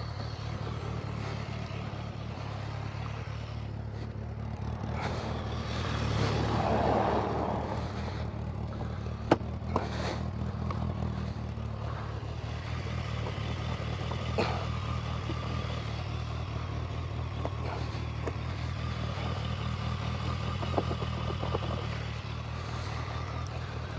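A vehicle engine idling steadily, with another vehicle passing about six to eight seconds in and a few sharp knocks and clatters.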